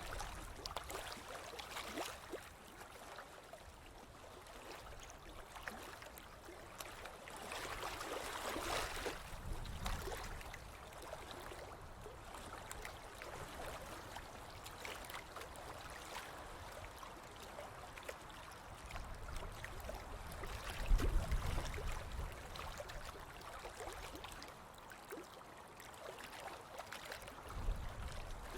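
Ocean waves washing onto a beach in a steady rush, with one wave swelling louder about a third of the way through. Two low rumbles come later, the louder one about two-thirds of the way through.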